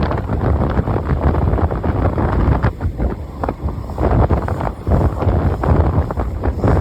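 Wind buffeting the microphone of a camera riding on a moving motorcycle, a loud rushing that surges and dips, with the bike's running noise underneath.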